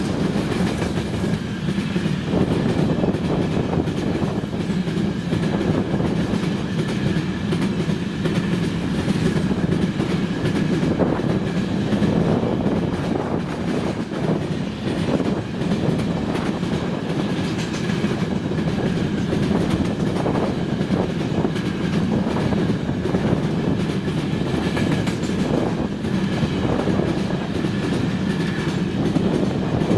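Freight train of gondola cars rolling past at speed: a steady rumble and clatter of wagon wheels over the rails, with a faint high steady tone above it.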